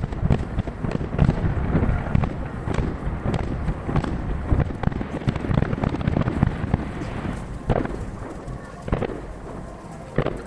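Dense barrage of aerial firework shells bursting about 800 m away, the booms overlapping with their echoes into a continuous rumble, played at three times speed. After about seven seconds the barrage thins to a few separate bangs, one near the end.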